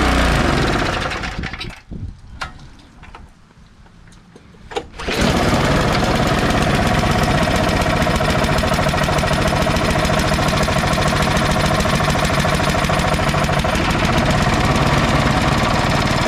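Tecumseh 5.5 hp engine on a Craftsman snowblower running, stopping about a second and a half in, then a few clicks, and starting again about five seconds in to run steadily. The owner suspects worn crank bearings or a bent shaft.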